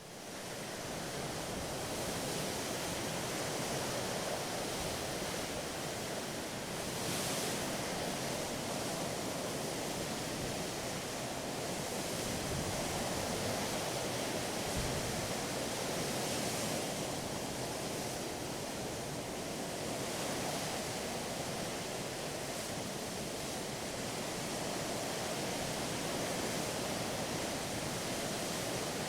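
Water rushing steadily past a moving ship's hull, a continuous hiss with slight swells. It fades in over the first second, with no clear engine tone.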